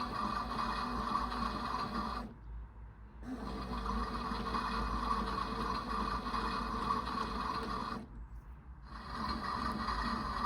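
Theo Klein 9213 toy washing machine's drum motor running with a steady gear whirr. It stops for about a second twice, about two seconds in and about eight seconds in, then starts again.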